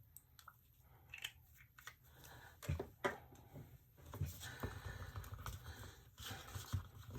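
Faint clicks, taps and light scraping from handling a small colorant bottle and a cup of tinted epoxy resin at close range, with a short stretch of scraping in the middle.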